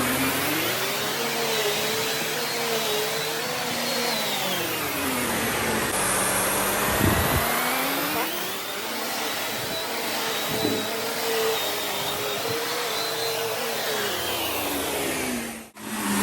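Upright vacuum cleaner, a Shark Navigator, running over carpet. Its motor whine rises in pitch, holds, then falls, twice over, as the load on the head changes.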